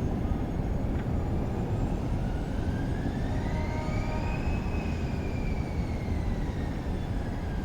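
Jet aircraft engines running: a steady low rumble with an engine whine that rises in pitch to a peak partway through and then falls.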